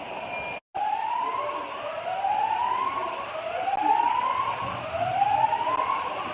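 Siren wailing in repeated rising sweeps, each climbing in pitch and then dropping off sharply, about one every second. The sound drops out for an instant just before the first sweep.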